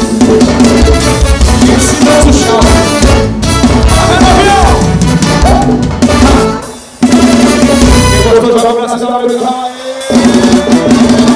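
Forró band playing, with drum kit and bass keeping a steady beat. The beat drops out briefly twice, around two-thirds of the way through, before the full band comes back in.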